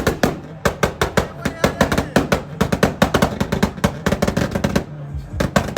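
A modified car's exhaust popping and banging in a fast, irregular string of sharp cracks, several a second, like firecrackers, easing off near the end.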